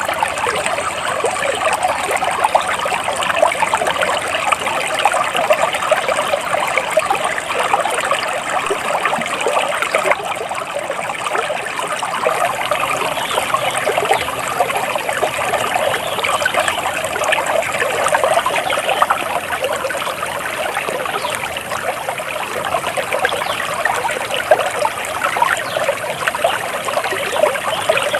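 Flowing stream water trickling and babbling steadily.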